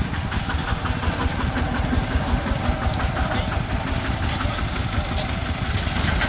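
An engine running steadily, a continuous low rumble with no change in speed.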